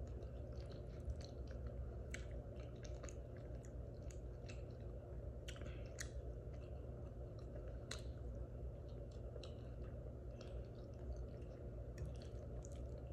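A person chewing a mouthful of loaded baked potato with shrimp, chicken, sausage and Alfredo sauce close to the microphone, with short wet mouth clicks scattered irregularly through it, over a steady low hum.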